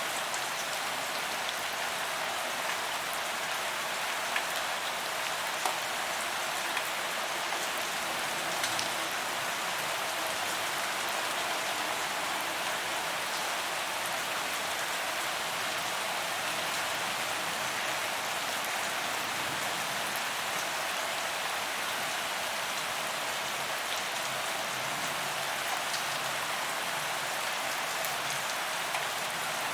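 Steady rain falling on a paved promenade, an even hiss of drops hitting the ground, with a few louder single drop hits in the first ten seconds.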